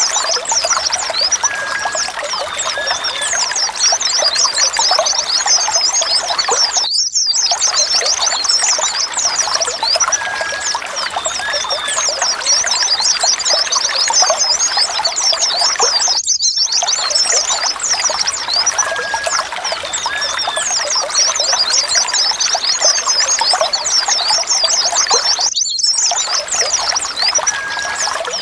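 A dense flock of white-eyes (pleci) chirping, with many rapid, high, overlapping calls and an occasional short whistle. The recording loops, with a brief gap about every nine seconds.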